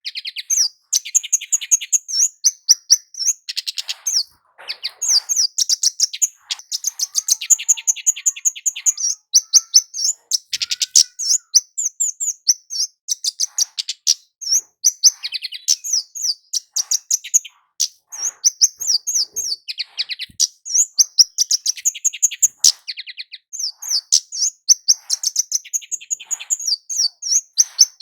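Kemade jawa (burung cabe), a small flowerpecker, singing hard. It gives rapid strings of high, thin chirps and trills, one string after another with only brief pauses.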